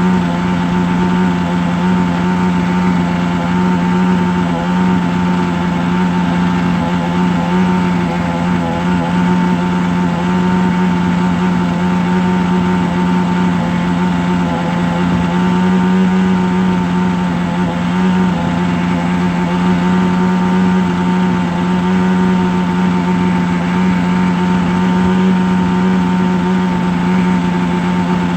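A steady, unchanging droning hum with a strong low pitch and many overtones, running at an even loudness throughout.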